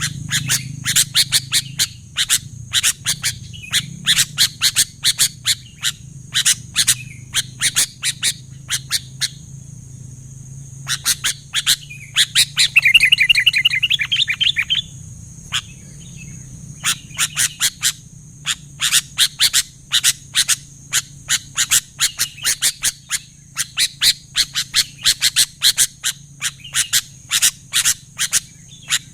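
Sooty-headed bulbuls calling in a dense run of short, sharp chirps, with a louder rapid trill about halfway through. This is the vigorous 'gacor' calling used to draw other bulbuls in. A steady high hiss runs underneath.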